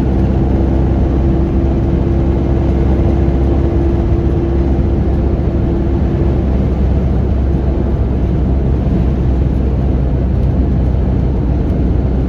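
Car driving on the highway, heard from inside the cabin: steady low road and wind noise, with a steady hum that fades out about halfway through.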